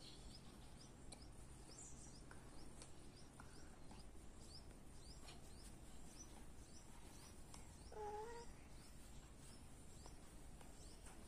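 Near silence, with a bird's faint, high chirps repeating about twice a second. About eight seconds in there is one short animal call.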